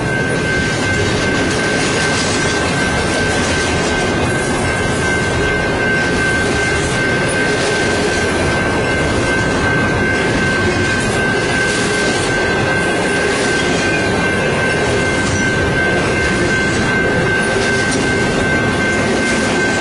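Freight train rolling past at close range, a steady dense rumble of cars on the rails with a continuous high-pitched wheel squeal held at one pitch.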